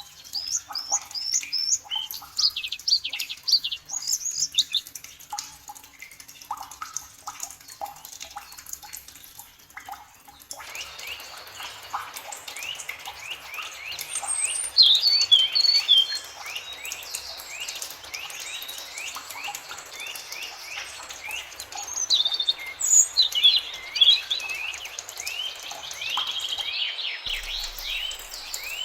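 Several forest songbirds chirping and singing, with many quick notes that sweep downward in pitch. About ten seconds in, the background changes abruptly to a steady hiss under the chirping, as if a different recording has been spliced in.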